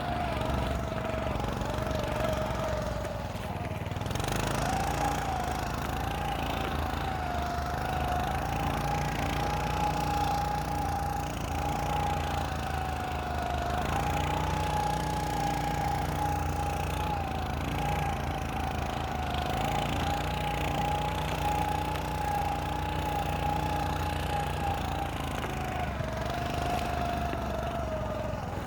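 Small engine of a motorized snow scooter running under way. Its pitch dips and recovers a couple of times as the throttle changes.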